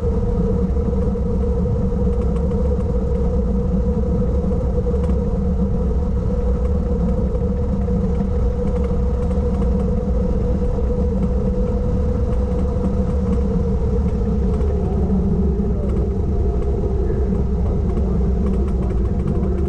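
Car engine running steadily with road rumble, heard from on board the moving car. The engine note eases slightly lower about three-quarters of the way through.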